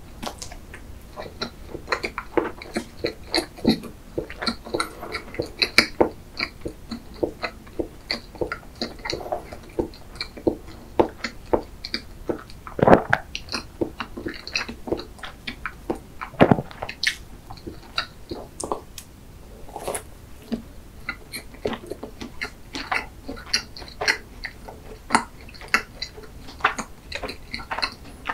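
Close-miked eating of chocolate-glazed sponge layer cake, with a chocolate-glazed doughnut near the end: soft wet chewing with a steady, uneven run of small mouth clicks and lip smacks, a couple of them louder.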